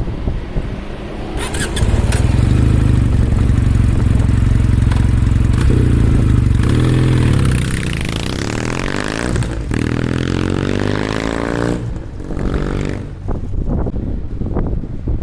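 2024 Kawasaki W800's air-cooled parallel-twin engine exhausting through a POSH muffler made for the W650, running loud with its pitch rising and falling as the engine speed changes. The sound drops off about twelve seconds in.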